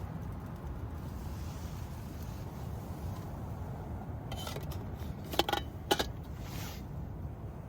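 Camp cookware clinking: a few light metallic clicks, then two sharp metal clinks about five and a half and six seconds in, over a steady low rumble.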